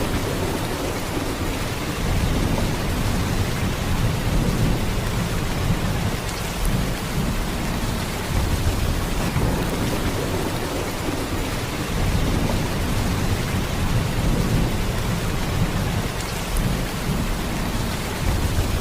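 Steady heavy downpour: dense, even rain noise with a deep low rumble underneath that swells and eases every few seconds.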